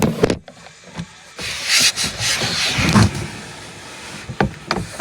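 Thumps and scuffing as someone climbs into a pickup truck's bed, with a heavy knock about three seconds in and a couple of sharp clicks near the end.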